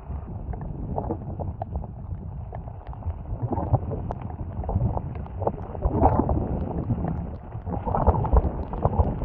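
Storm-force wind gusting over the microphone in a low rumble, swelling a few times, with many irregular ticks and knocks over it.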